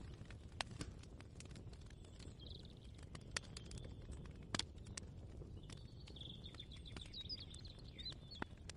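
Faint kitchen ambience: a steady low rumble with scattered light clicks and knocks, and a small bird twittering briefly about two and a half seconds in and again from about six to eight seconds.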